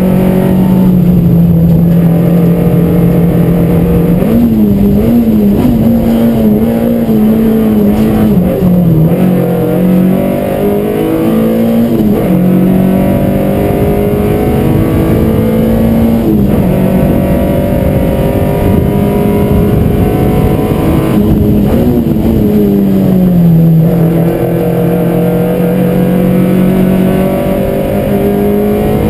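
Peugeot 205 Rallye's four-cylinder engine heard from inside the cabin, driven hard at high revs, its pitch climbing and dropping over and over as the car works through the gears and slows for bends.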